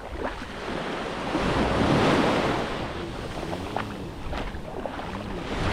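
Small waves washing onto a sandy beach, with wind buffeting the microphone; the surf swells about two seconds in.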